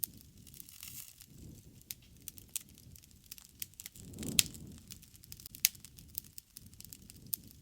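Wood campfire burning, with irregular sharp crackles and pops over a soft low rush of flame that swells briefly about four seconds in, with the loudest pop.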